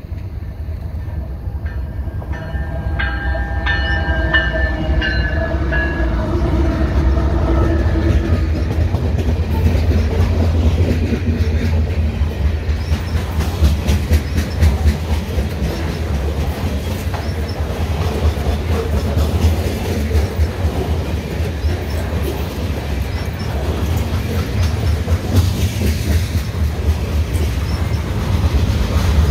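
Freight train led by GE AC4400CWM diesel locomotives passing close by: the lead locomotive's multi-note horn sounds for a few seconds near the start, dropping slightly in pitch as it goes by. It gives way to a steady low rumble and wheels clattering over the rail joints as loaded hopper and tank cars roll past.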